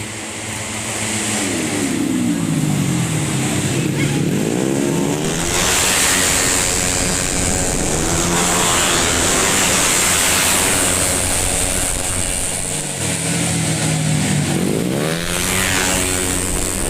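Tuned 130 cc automatic scooters racing past at full throttle, their engine notes rising and then dropping in pitch as they go by. One bunch passes in the first few seconds and another about fourteen seconds in, with engines running in the distance in between.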